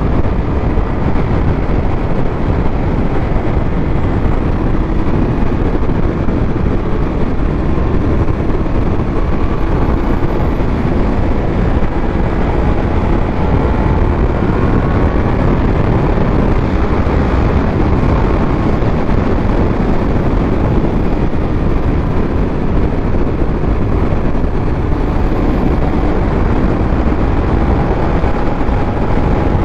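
Steady road wind rushing over the microphone while a Triumph Speed Triple 1200 RS rides at speed, its inline three-cylinder engine running underneath with a faint note that drifts slightly up and down.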